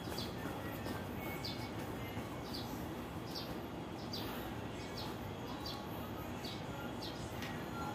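Small birds chirping: short, high chirps at irregular intervals, about one a second, over a steady background hiss.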